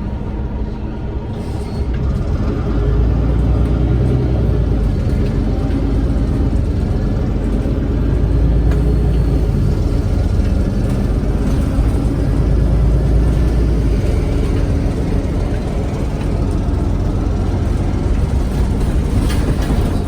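MAN Lion's City G articulated bus driving, its engine a steady low rumble. The rumble grows louder about two seconds in and eases off a little past the middle.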